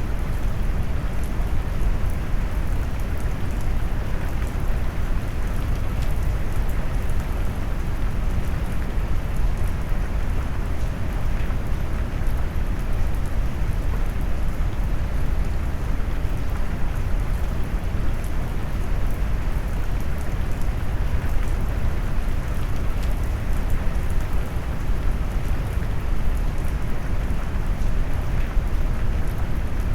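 Steady rain noise mixed with brown noise: an even, deep rushing hiss weighted heavily toward the low end, with no changes or separate events.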